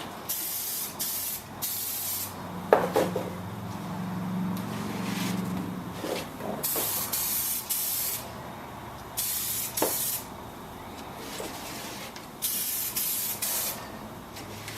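Spray paint hissing out in short bursts, about nine of them, with a sharp knock a few seconds in and another near the middle.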